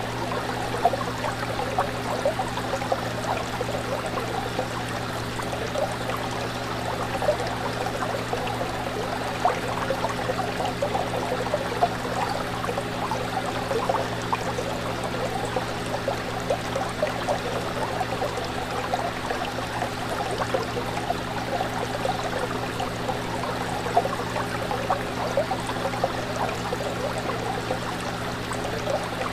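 Running fish tank: water bubbling and trickling steadily with many small splashes, over a steady low hum from the tank's pump.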